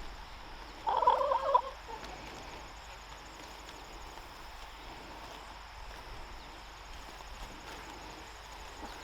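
A farm bird's call: one short, rapid, warbling burst about a second in, then only faint background.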